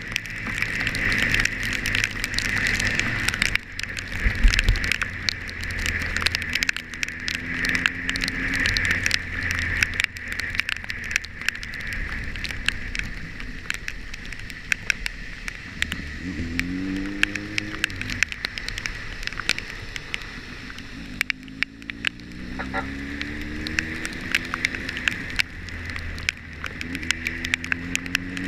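A vehicle engine running on the move, its pitch rising three times as it speeds up. Steady wind and road noise runs under it, with many sharp ticks of rain hitting the camera.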